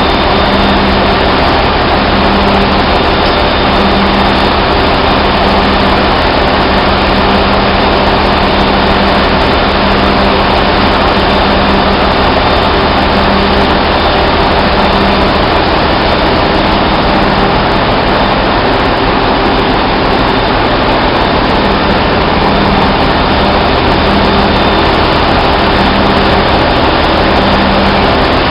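Loud, steady drone of running heavy machinery, typical of a ship's engine room, with a low hum that swells and fades every second or two.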